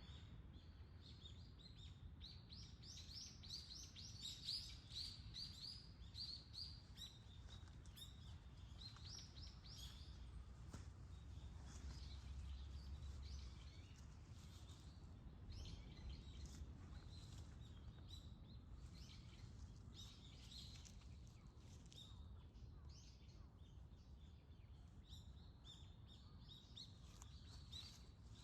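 Faint small birds chirping, with a quick run of chirps a few seconds in and scattered calls after, over a steady low rumble.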